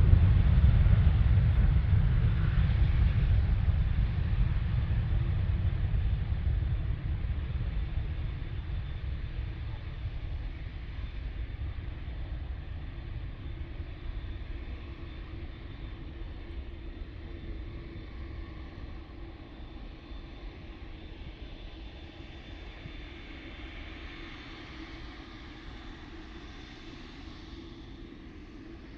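Jet engines of a departing widebody airliner rumbling and fading steadily as it climbs away after takeoff.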